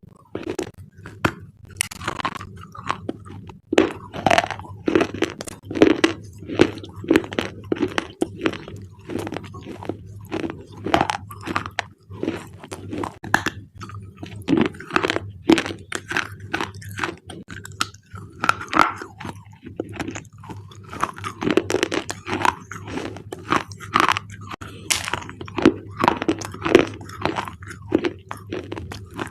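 Thick black slate bars being crunched: a continuous, irregular run of crunches and snaps, several a second.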